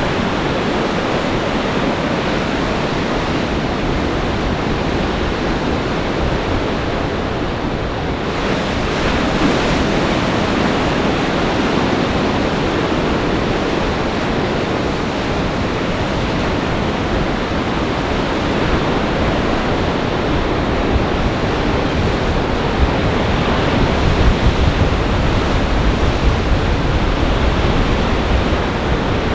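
Storm waves on Lake Michigan crashing and churning steadily in gale-force wind, with a swell of surf about nine seconds in. Wind buffets the microphone in low rumbling gusts near the end.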